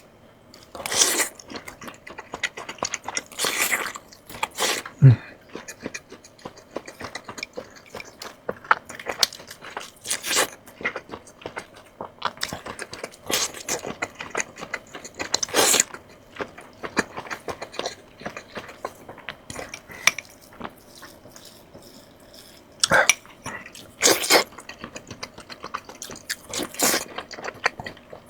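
A person eating close to the microphone: biting and chewing crunchy food, with loud crunches every few seconds between quieter chewing.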